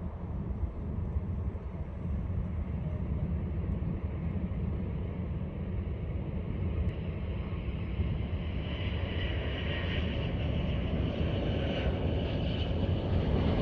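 Jet airliner engines heard from the ground as a steady low rumble, with a higher-pitched engine whine building over the last few seconds as the aircraft draws closer.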